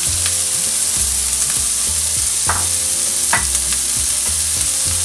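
Chopped onion and tomato sizzling steadily as they fry in oil in a pan, with a couple of brief higher sounds about two and a half and three and a half seconds in.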